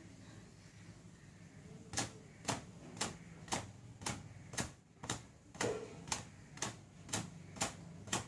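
Wet hair slapped with a cotton towel to wring the water out: sharp slaps about two a second, beginning about two seconds in.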